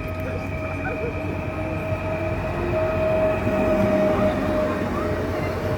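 Train rolling along the track, getting louder over the first few seconds, with a steady high whine held over the rumble of wheels on rails.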